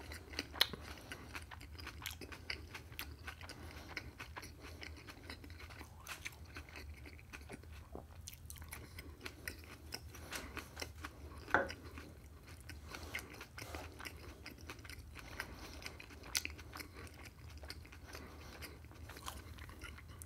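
A person chewing a mouthful of food, a steady run of small irregular clicks and crunches, with louder snaps about half a second in and near the middle.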